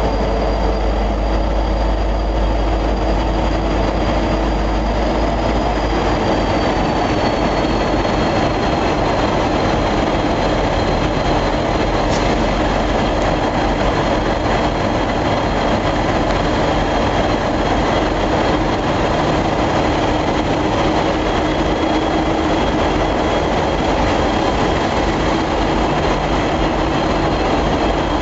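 Train at a station platform running steadily, with a low rumble, a constant hum and a high whine that slides down a little in pitch about seven seconds in.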